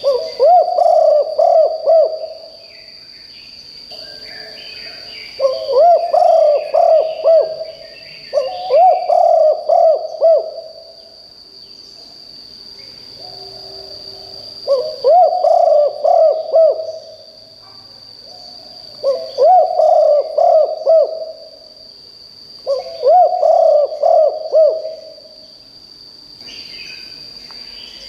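A spotted dove coos its territorial phrase over and over: six loud phrases of several low, hooting coos, a few seconds apart. A steady high-pitched whine runs underneath, and a few faint chirps from other birds come in between the phrases.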